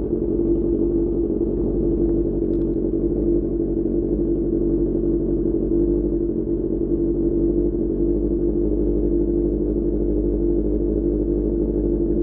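SRK600 inline-four motorcycle engine through a Pure Austin Racing GP1R exhaust, running at steady revs with a low rumble beneath it.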